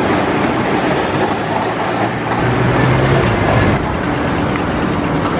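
Melbourne City Circle tram running along its track, heard from inside the car: a steady rumble of steel wheels on rails. A low motor hum swells in the middle, and the higher rattle drops away a little after the middle.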